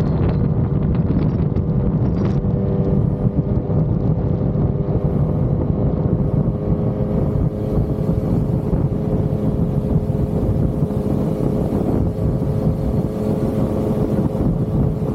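Yamaha XSR900's inline-three engine running at a steady cruise, its pitch holding constant, with wind rushing over the microphone.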